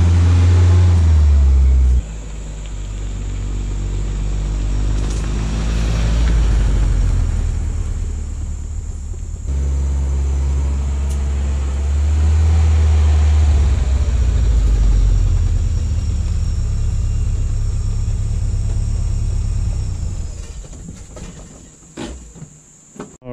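1978 Datsun 210's inline-four engine driving the car across a parking lot. The engine note rises a couple of times as it is given throttle, then dies down near the end as the car moves off.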